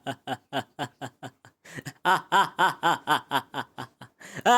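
A cartoon character's voice laughing in a fast, unbroken string of 'ha' bursts, about four or five a second, growing louder about two seconds in.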